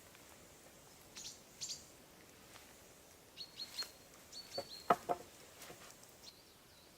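Wild birds chirping in short, high notes, a pair of calls and then a quick run of several, over faint forest ambience. A sharp knock just before the middle is the loudest sound, followed by a few softer clicks.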